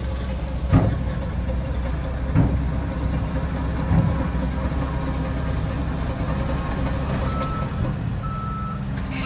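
Shantui DH17C3 Pro bulldozer's diesel engine running with a steady low drone, with three sharp knocks in the first four seconds. About seven seconds in, a reversing alarm starts beeping.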